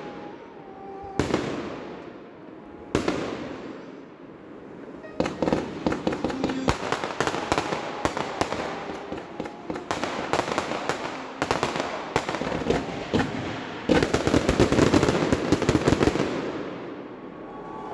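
Fireworks display: two single aerial shell bursts a couple of seconds apart. Then, from about five seconds in, a dense run of rapid crackling bangs builds to the loudest volley of many quick shots near the end.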